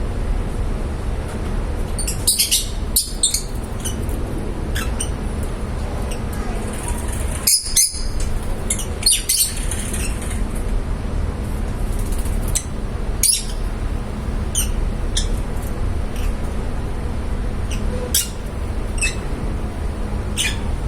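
Lovebirds giving short, high chirps and squawks at irregular intervals, in small clusters, over a steady low background rumble.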